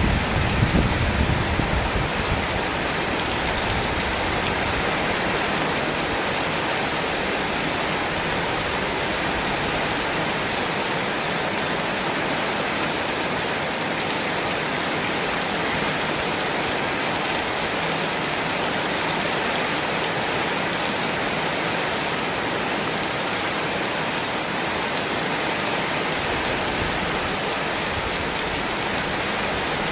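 Steady rain pouring down in an even hiss. A low rumble of thunder dies away in the first couple of seconds.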